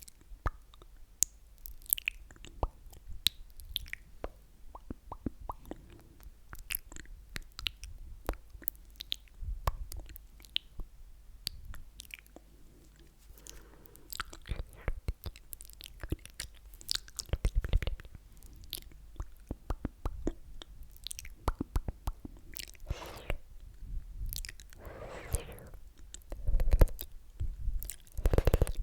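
Close-miked ASMR mouth sounds: a string of wet clicks and smacks, with a few longer wet, breathy passages in the second half.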